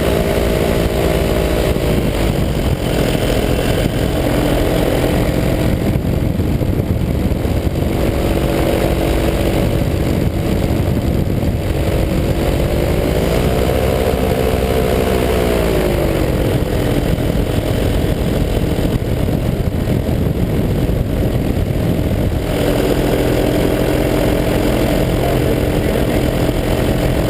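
185 cc EcXtreme paramotor engine running in flight with a steady drone. Its pitch dips about two seconds in, swells briefly in the middle and falls back, then picks up again near the end as the throttle is eased and opened, over a constant low rumble.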